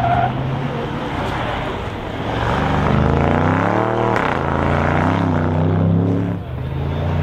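Audi RS6 Avant's twin-turbo V8 running hard as the car drives past. Its pitch climbs as it approaches, drops sharply as it passes about four seconds in, then carries on more evenly.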